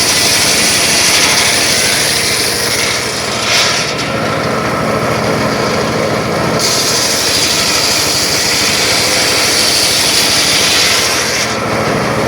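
Circular saw running and cutting wood. The high cutting noise eases for about three seconds in the middle and again near the end while the motor keeps running.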